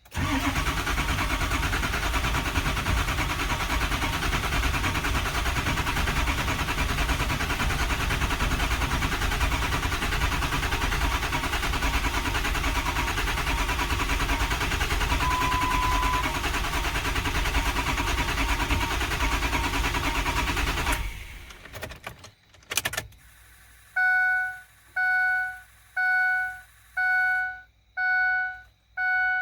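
Ford 6.0 Powerstroke diesel V8 cranking on its starter for about twenty seconds without firing; the long crank comes from air still in the high-pressure oil system after the oil rails and injectors were removed. The cranking stops, there is a click, and a chime beeps six times about once a second.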